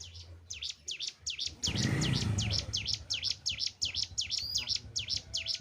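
A cigun (ciblek gunung, a hill prinia) singing a fast, even run of sharp, high, downward-sweeping chirps, about four or five a second. A brief low rumble sounds about two seconds in.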